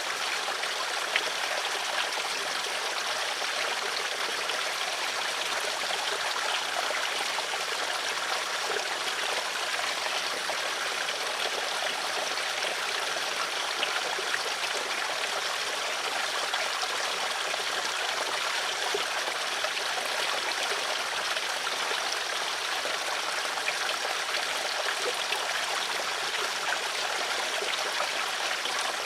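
Water flowing in a stream, a steady rushing babble with small splashes and trickles.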